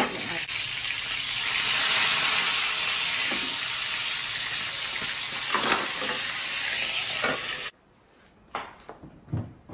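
Pork pieces frying in hot oil in a pan, a steady loud sizzle with a couple of clinks from the utensil against the pan. It cuts off suddenly near the end, leaving a few faint knocks.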